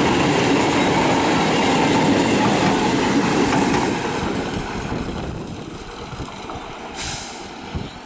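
Electric multiple-unit suburban train passing close by at speed, a loud, steady rail noise of coaches and wheels on track. About four seconds in it drops sharply and fades to a quieter train noise, with a brief hiss near the end.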